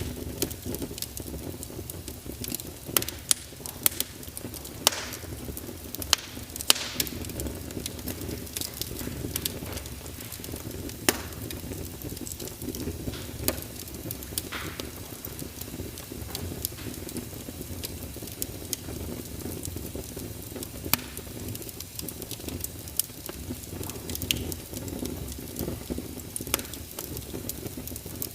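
Wood fire crackling in a fireplace: a steady low rumble of flames with frequent irregular pops and a few louder snaps.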